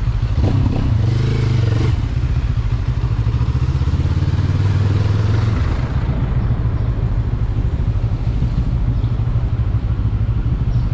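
Benelli TRK 702 motorcycle's parallel-twin engine running steadily at low revs, a deep even pulse with no revving.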